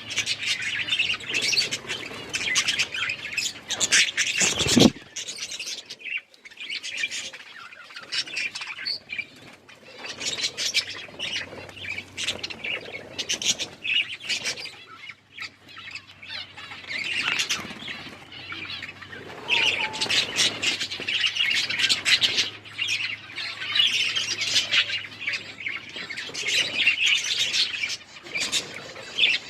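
A flock of budgerigars chattering nonstop: quick chirps, warbles and squawks overlapping, with short lulls. A single short thump just before five seconds in.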